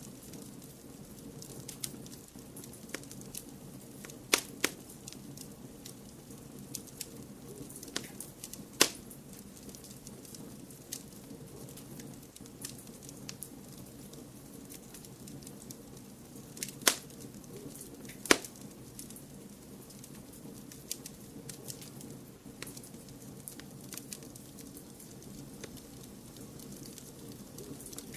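Fireplace fire crackling: scattered sharp snaps and pops over a steady low rush, with a few louder pops about four, nine, seventeen and eighteen seconds in.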